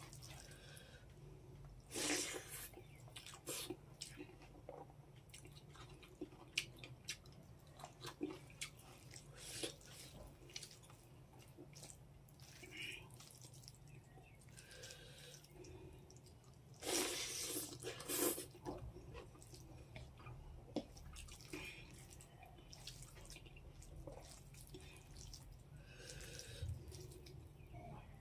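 Close-up eating sounds: wet chewing, lip smacks and mouth clicks coming irregularly, with a few louder noisy bursts about 2 seconds in and again around 17 to 18 seconds in, over a low steady hum.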